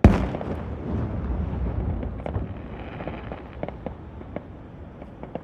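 Fireworks: a loud aerial shell bursts right at the start, its boom trailing off in a low rumble over a couple of seconds, with scattered sharp crackles afterwards.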